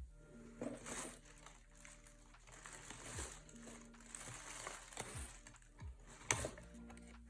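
Faint handling noises: scattered soft rustles and light clicks of small parts being handled, with one sharper click about six seconds in, over a faint steady hum.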